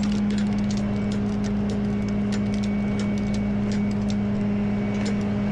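Tow truck engine idling with a steady hum, with scattered light clicks and clinks over it.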